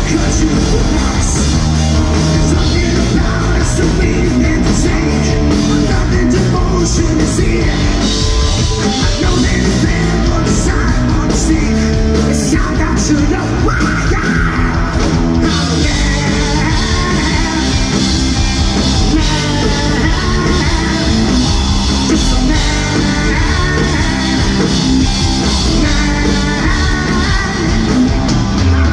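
Rock band playing live and loud, with a busy run of cymbal-like hits in the first half that thins out about halfway through.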